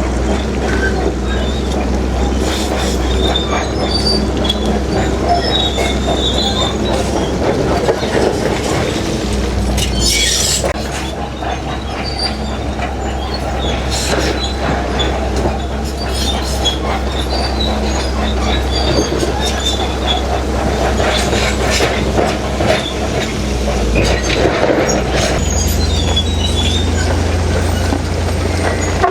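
Heavy crawler bulldozer working rock: the diesel engine runs steadily under load while the steel tracks squeal and clank. The engine note shifts about ten seconds in and again near the end.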